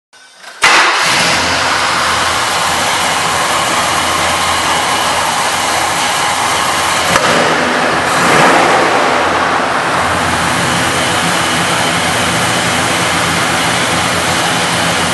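A 1972 Chevrolet Chevelle's V8 engine starts: a brief crank, then it catches less than a second in. It then settles to a steady idle, with a slight rise in revs about eight seconds in.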